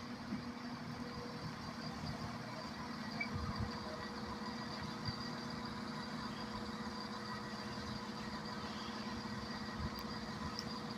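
Class 170 Turbostar diesel multiple unit idling at the platform: a steady low diesel engine hum with no change in pitch.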